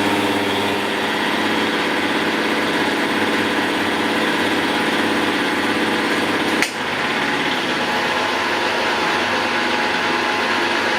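Milling machine running with a shell mill face cutter: a steady mechanical whir with a few steady tones, and one short click about two-thirds of the way through.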